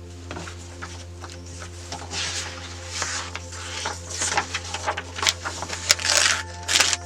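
Paper being handled: a run of short rustling, crinkling bursts that grows busier from about two seconds in.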